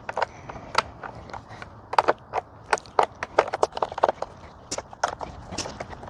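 Screws being backed out of the plastic base plate of a Bissell PowerForce Helix upright vacuum with a screwdriver: a run of irregular sharp clicks and ticks, two to four a second, from the driver and the plastic housing.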